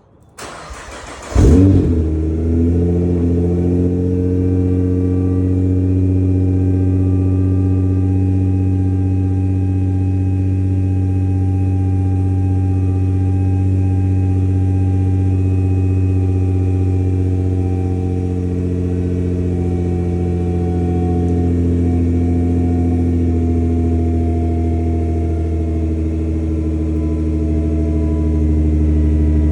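Nissan GT-R's twin-turbo V6 through an HKS cat-back exhaust cranking for about a second, firing with a loud flare, then settling into a steady cold-start high idle. The idle dips slightly past the middle and picks up again near the end.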